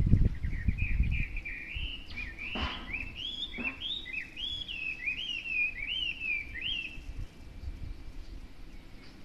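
A songbird singing a rapid run of clear whistled notes, each sliding up and down, for about six seconds before it stops. The uploader takes it for a Chinese hwamei. A low rumble sounds in the first second.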